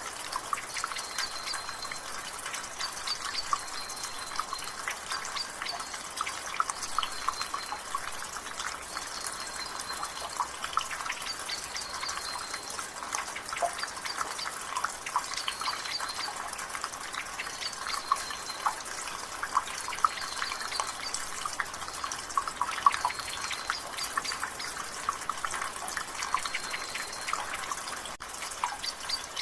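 Rainwater dripping and trickling from a gutter: a dense, steady patter of drips. A bird repeats a short high call every second or two in the background.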